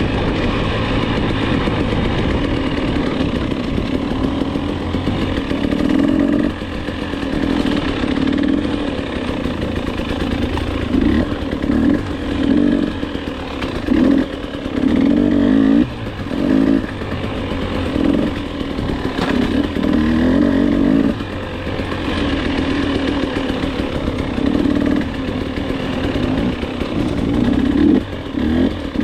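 Dirt bike engine on a trail ride, revving up and dropping back again and again as the throttle is opened and closed every second or two.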